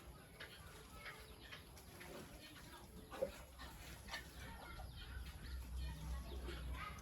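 Faint, short calls and squeaks of farm animals, scattered through with small clicks, and a low steady hum setting in about halfway.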